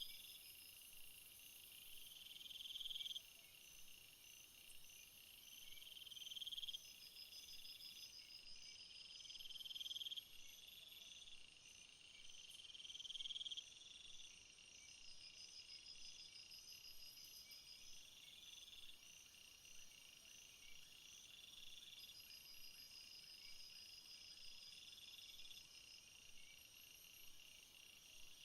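Faint jungle chorus of insects: several high trills and chirping calls run on together. Over them, a buzzing call swells for about a second and cuts off sharply, repeating every three to four seconds, and grows weaker after about halfway.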